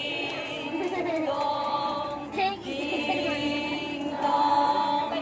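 A group of voices singing together, holding long sung notes in unison.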